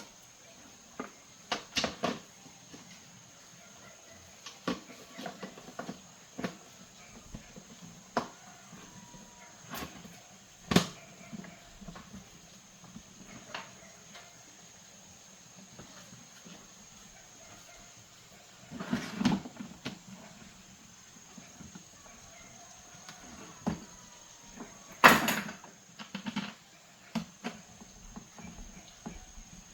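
Irregular clicks, taps and knocks of small hard objects being handled, with two louder clattering bursts past the middle.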